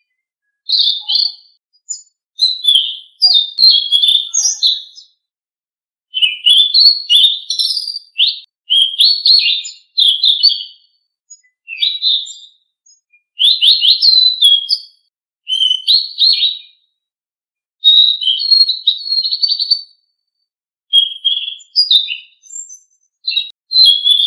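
Selendang biru songbird singing: bursts of rapid, high chirps and twitters, each phrase a second or two long, separated by short silent gaps.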